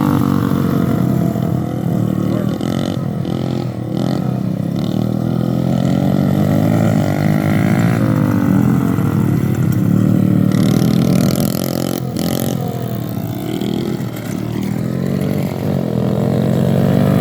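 Several small kids' 50cc dirt bike engines running hard, revving up and dropping back again and again as the bikes race around a track.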